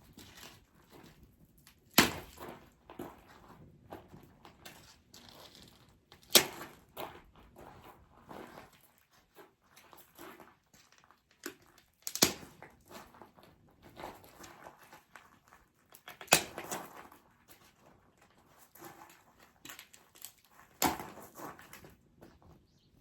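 Dry wood cracking sharply five times, about four seconds apart, with lighter crackling and rustling between.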